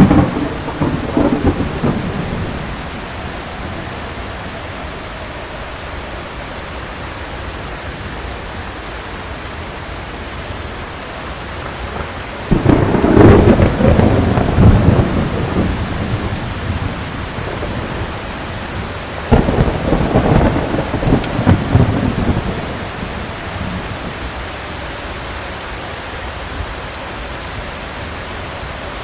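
Steady heavy rain with thunder. A rumble dies away in the first couple of seconds. Then two loud peals break in suddenly, a little before halfway and about two-thirds through, each rolling on for a few seconds before fading back into the rain.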